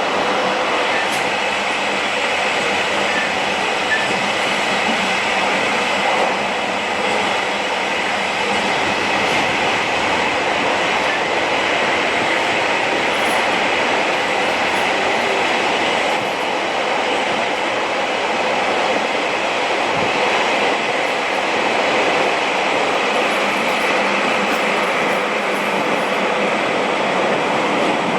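Steady running noise of a commuter train heard from inside the car: wheels rolling on the rails with the car's rumble.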